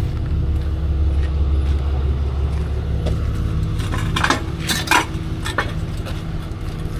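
Engine running with a steady low drone, and a few sharp metallic clinks and clanks from about four seconds in.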